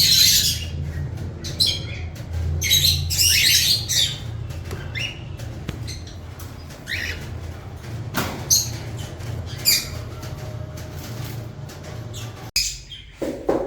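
Small pet parrots, cockatiels and lovebirds, squawking and chirping in many short, shrill calls, over a steady low hum. Near the end the calls stop and a couple of knocks follow.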